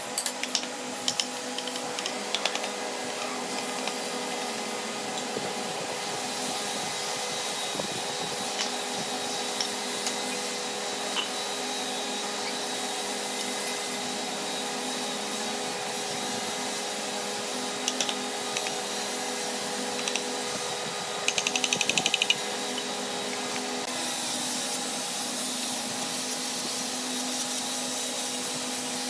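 Electric motor of a woodworking power tool running steadily with a constant whine, broken by a few sharp clicks near the start and a brief fast rattle of clicks about two-thirds of the way through.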